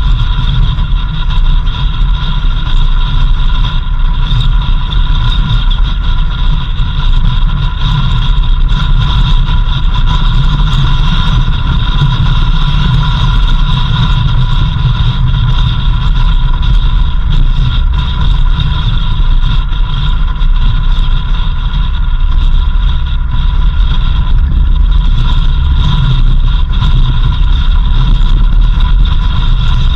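A vehicle driving steadily: continuous engine and road rumble with a steady high whine over it.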